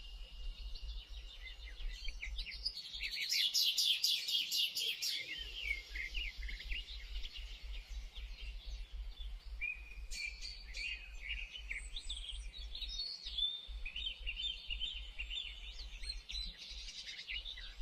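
Songbirds chirping, with a dense flurry of sharp chirps about three to five seconds in, then scattered chirps and short trills.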